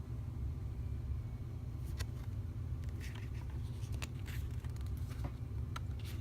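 Oracle cards being handled: a few light clicks and short paper slides as cards are picked up and laid down, starting about two seconds in, over a steady low hum.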